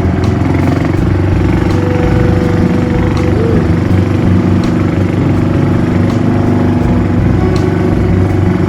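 Motorboat engine running steadily at cruising speed.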